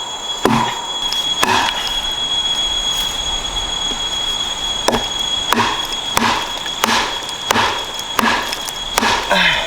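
Repeated chopping blows on wood, about three every two seconds, with a pause of a few seconds after the first two. A steady high-pitched whine and a hiss run underneath.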